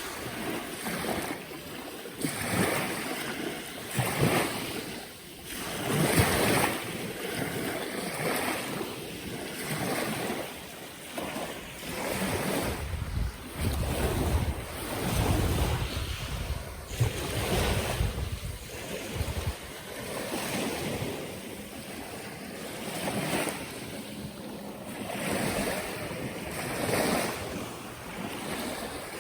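Sea waves breaking and washing on a beach, swelling and falling back every few seconds, with wind buffeting the microphone.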